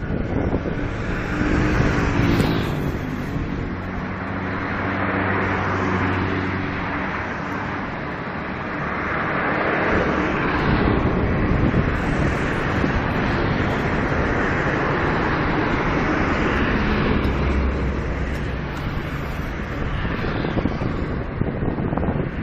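Strong wind blowing in gusts that swell and ease every few seconds, with a low steady hum underneath at times.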